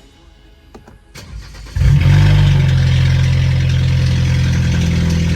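BMW 320i's N20 turbocharged 2.0-litre four-cylinder cold-starting through a 2.5-inch straight-pipe exhaust with no mufflers. Quiet with a few faint clicks for the first couple of seconds, then the engine catches suddenly with a very loud flare and settles into a steady, loud idle.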